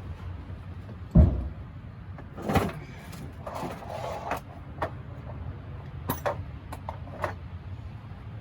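Hand tools and bolts being handled during clutch work under a truck: a heavy thump about a second in, then scattered knocks, a brief rattle and several sharp metallic clicks, over a low steady hum.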